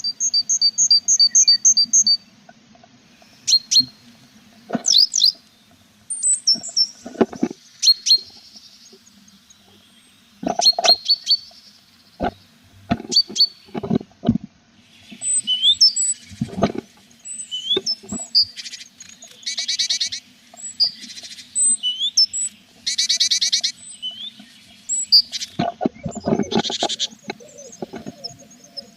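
Tits calling inside a nest box: a rapid run of high chirps at the start, then scattered high notes and several buzzy, fast-pulsed bursts in the second half, typical of nestlings begging. Between them come repeated knocks and scrapes of birds moving against the box, over a steady low hum.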